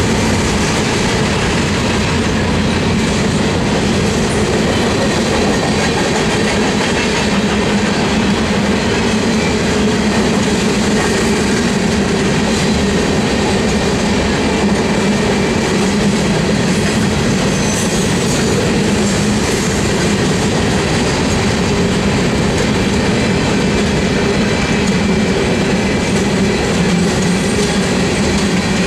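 Freight train's covered hopper cars rolling past, a steady, unbroken noise of steel wheels running on the rails.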